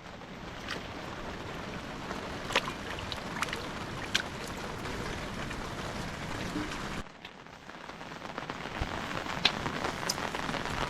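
Steady rain falling, with scattered louder drops ticking through it. The rain sound drops away suddenly about seven seconds in and builds back up.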